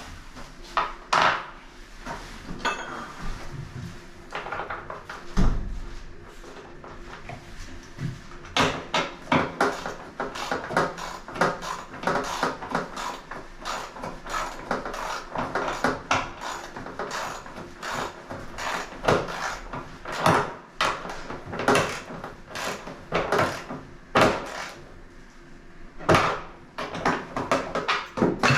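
Irregular knocks, taps and clatter of hand tools and parts during washing machine repair work, at times several quick strikes a second.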